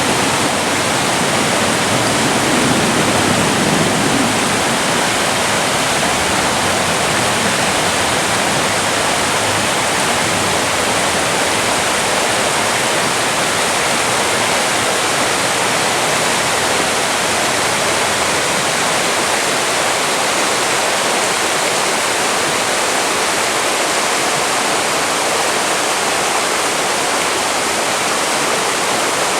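Fast-flowing creek water rushing steadily over rocks: a loud, even rush that does not change.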